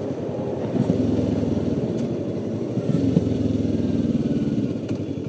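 Kawasaki Ninja 650R's parallel-twin engine running at low, steady revs, with small shifts in engine note about a second in and again near three seconds.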